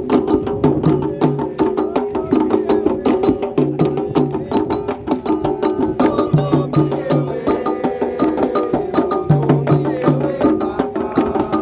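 Candomblé drumming: atabaque hand drums played in a fast, steady rhythm, with low drum strokes falling in short groups of two or three over dense, rapid sharp strokes.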